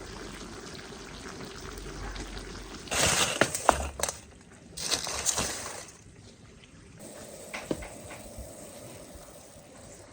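Water pouring and splashing in two short bursts a few seconds in, with a few sharp clinks.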